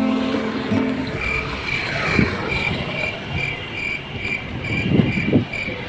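An insect, likely a cricket, chirping in an even rhythm of about two to three high chirps a second, starting about a second in as guitar music fades out. A few low thumps come near the end.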